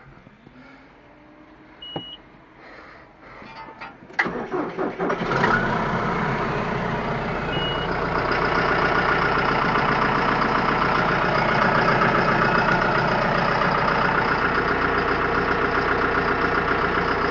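John Deere 5105 tractor's three-cylinder diesel cold-starting after sitting since late fall. A click of the key and a short beep come first, then a brief crank, and the engine catches about five seconds in and settles into a steady idle.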